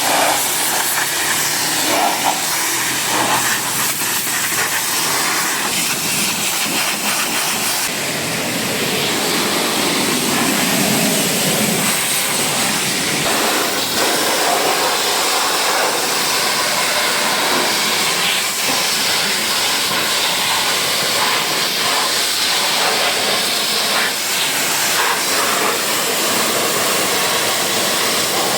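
Steady, loud hiss of a high-pressure washer spray jetting onto a car, with no let-up.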